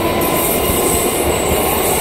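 Conventional EMU local train running past: a steady rumble of its wheels on the rails, with a few thin steady tones over it.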